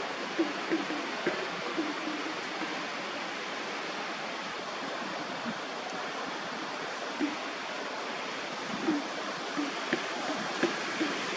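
A monkey giving short low grunts, a quick run of them in the first two seconds and another scattered run in the last few seconds, over a steady rushing background noise.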